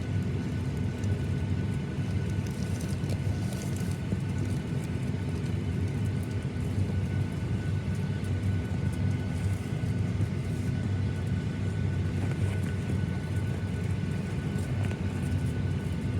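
Steady low rumble inside a Boeing 737-900ER's passenger cabin, with a faint constant whine above it.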